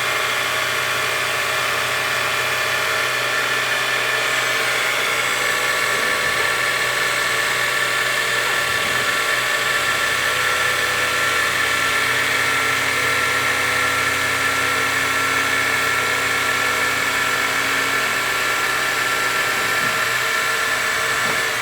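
PM-940 CNC milling machine's spindle running a 2-inch face mill through a 0.0005-inch skim pass across an aluminum block: a loud, steady whine made of several held tones.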